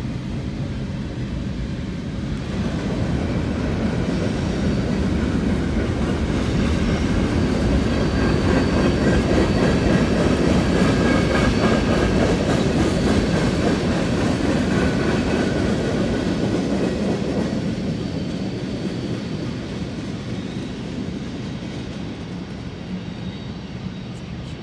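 Freight cars of a CSX mixed freight train rolling past, wheels rumbling and clacking over the rail joints, with a faint high steady whine on top. The sound builds, is loudest about halfway through, and fades as the end of the train goes by.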